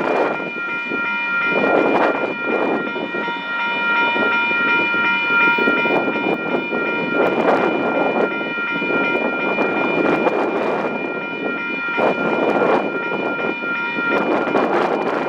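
KiwiRail freight train of container and curtainsider wagons rolling past, with several steady high-pitched ringing tones held throughout over the rumble of the wheels. Gusts of wind buffet the microphone several times.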